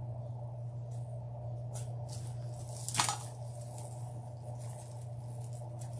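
Light rustling and crinkling of wreath materials being handled, with one brief sharper crackle about halfway through, over a steady low hum.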